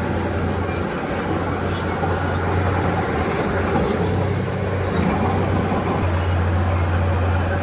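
Komatsu D31P crawler bulldozer's diesel engine running under work, a steady low drone with clatter; the low engine note eases for a few seconds in the middle and then comes back.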